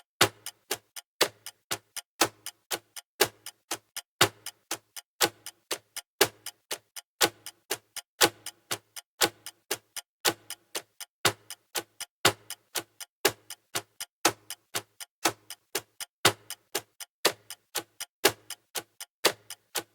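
Clock ticking sound of a countdown timer: a steady, even run of sharp ticks, a louder tick about once a second with softer ticks between.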